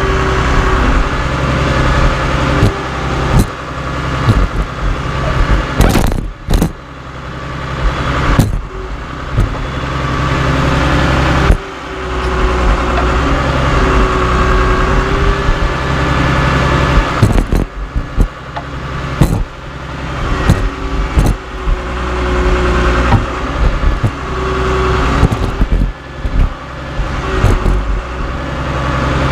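Caterpillar D3C LGP bulldozer's diesel engine running steadily, with frequent sharp metallic clanks and knocks and a squealing metal whine now and then.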